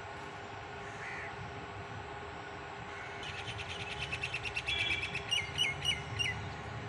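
A perched bird calling, starting about halfway through: a rapid run of harsh notes, then four separate down-slurred notes.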